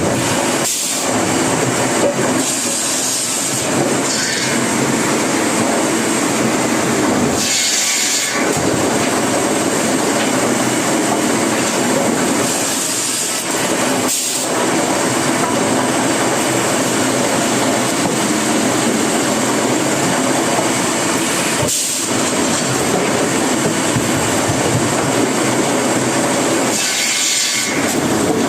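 Sawmill wood-cutting saw blade running continuously with dense, steady machine noise. Several brief louder surges come every few seconds.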